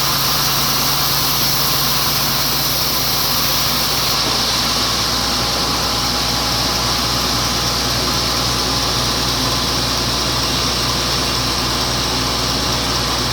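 Sawmill saw machinery running steadily, a constant mechanical drone with hiss; about four seconds in, the low hum and the highest hiss shift slightly.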